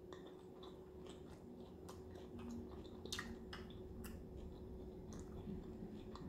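A person chewing a mouthful of Philly cheesesteak lettuce wrap with the mouth closed. Soft, faint wet clicks and smacks come at irregular moments.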